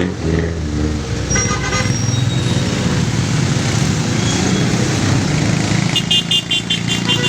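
Motorcycle and tricycle engines running in a convoy, with horns beeping: a short series of beeps about a second and a half in, and a rapid string of high beeps, about six a second, near the end.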